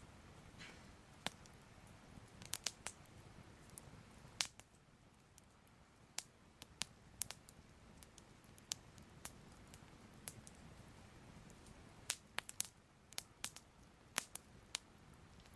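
Soft crackling fire: small sharp pops and crackles at irregular intervals, some bunched in quick clusters, over a faint steady hiss.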